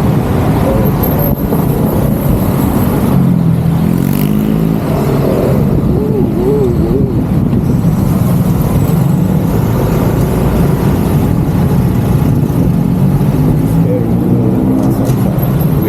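Loud, steady road traffic noise, with a vehicle engine revving up twice, a few seconds in and again near the end.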